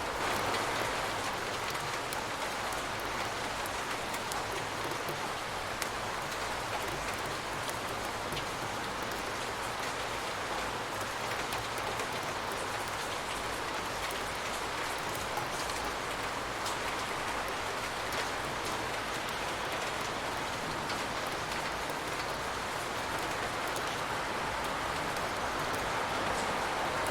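Steady rain falling, a continuous even hiss with scattered drop ticks on surfaces.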